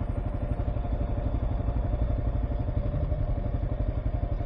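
Kawasaki KLR 650's single-cylinder engine running steadily as the motorcycle is ridden, a continuous even pulsing.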